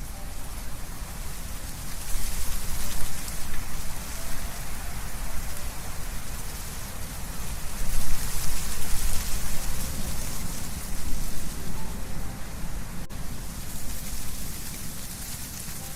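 Wind blowing through trees, leaves rustling in a steady rush that swells in gusts about two seconds in and again around eight seconds.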